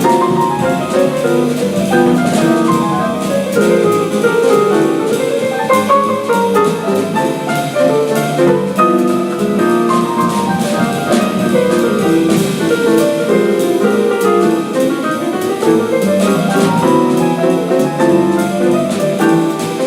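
Live jazz: an acoustic piano plays a busy line of many quick notes over a drum kit with cymbals.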